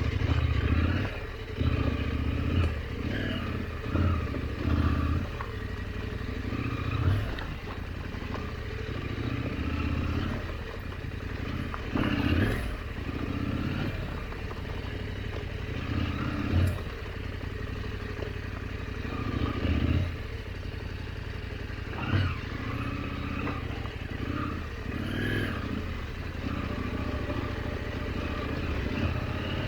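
KTM 890 adventure bike's parallel-twin engine running at low speed on a rough trail, the throttle opening and closing every few seconds, with a few sharp knocks.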